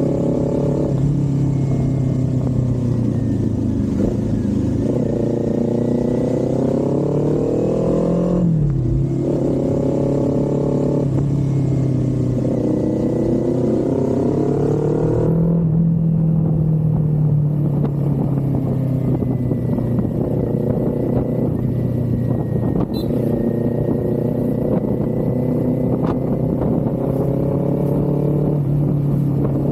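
Kawasaki Z400 parallel-twin engine and exhaust under way, the pitch climbing as it accelerates and dropping at each of several gear changes in the first half, then running steadier at cruising revs.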